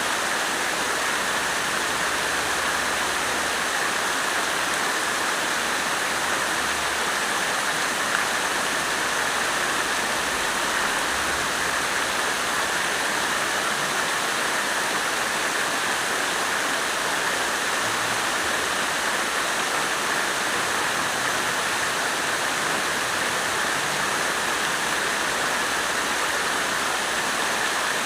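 Water fountain splashing steadily, an even, unbroken rush of falling water.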